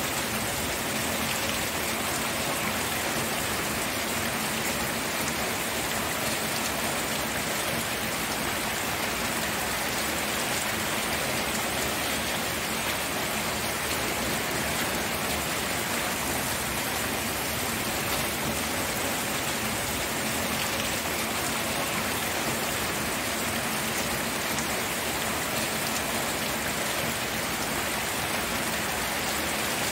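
Steady rain falling and pattering on surfaces, with no change in strength.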